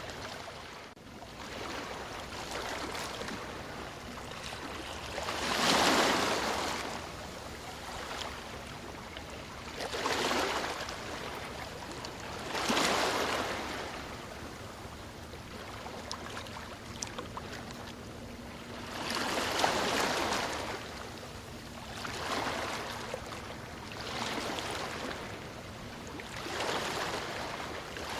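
Ocean waves breaking and washing onto a shore, each wave surging up and falling away every few seconds over a steady hiss of surf, the strongest about six seconds in.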